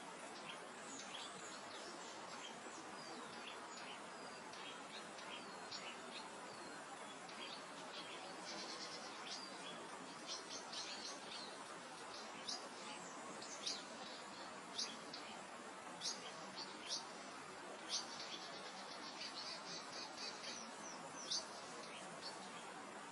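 Soft steady wind over open grassland with small birds calling: scattered short high chirps, thicker in the second half, and a fast high trill twice.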